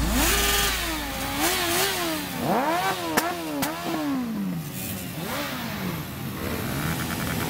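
Motorcycle engines running in a stationary group, blipped so their pitch rises and falls several times, with two sharp clicks a little after three seconds in.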